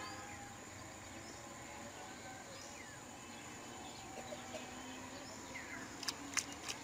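Quiet outdoor ambience with birds chirping faintly, a few short falling calls now and then. Near the end, a quick cluster of sharp clicks.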